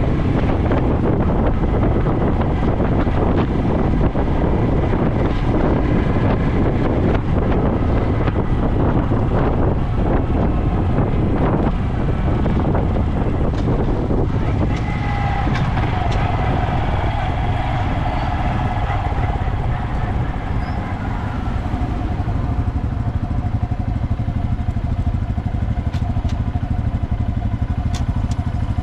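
Honda Dax125's single-cylinder engine running through a Takegawa normal-look sport exhaust, with wind rumbling on the microphone while moving. About halfway through, the engine note falls as the bike slows, then settles into a steady low tone.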